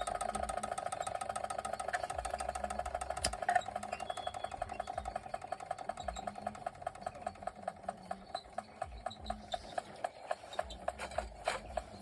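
Machinator Steamfire toy steam engine's oscillating cylinder chuffing steadily with a rapid, even beat that gradually slows to about two or three distinct puffs a second.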